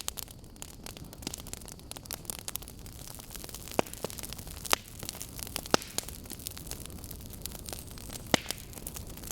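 Burning logs crackling: a steady run of small sharp snaps over a low rush, with a few louder pops now and then.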